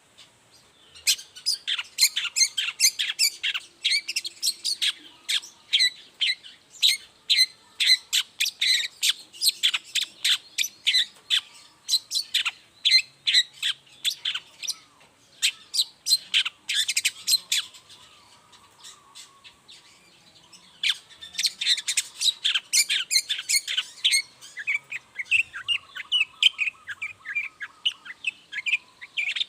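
Long-tailed shrike (cendet) singing a fast run of sharp, high chirps and chattering notes. It eases off about two-thirds of the way through, then starts again.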